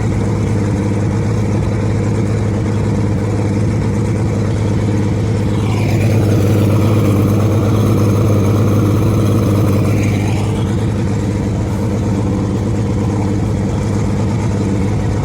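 Mariner 135 V6 two-stroke outboard running steadily underway, pushing the bass boat. The sound swells a little louder for a few seconds midway, then settles back.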